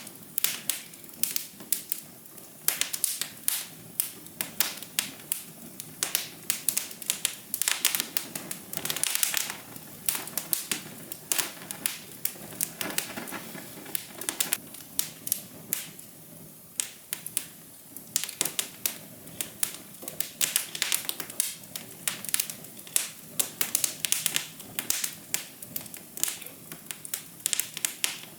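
Fire crackling: dense, irregular snaps and pops over a soft, steady hiss.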